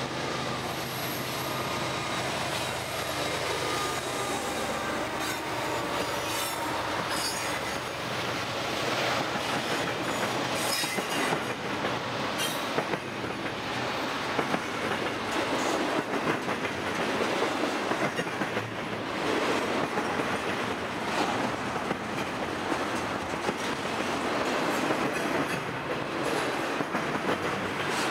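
A freight train passing close by: a GE ES44DC and an EMD SD75I diesel-electric locomotive go by in the first seconds, then double-stack intermodal container cars roll past. The wheels rumble steadily, with rapid clicking over the track and a thin wheel squeal now and then.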